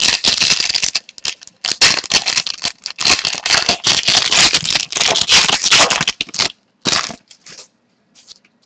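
Trading cards being handled and shuffled: a dense papery rattling and clicking for about six and a half seconds, then a few scattered clicks.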